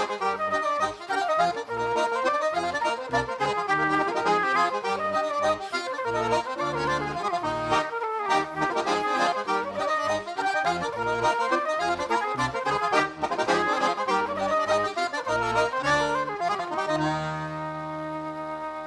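Accordion playing a traditional Irish tune: a quick melody over a regular pulse of bass notes, ending on a long held chord near the end.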